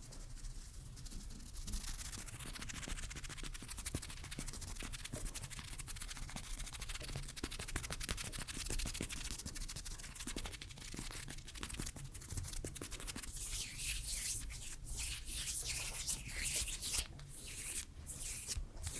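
Hands rubbing close to the microphone: a dense rustle with many fine crackles, breaking into separate strokes in the last few seconds.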